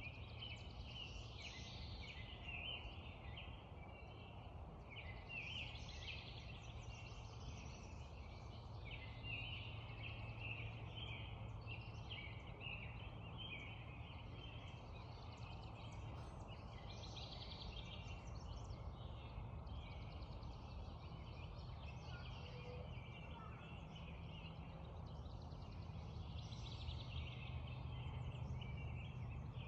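Dawn chorus of many songbirds singing at once over a steady low background rumble.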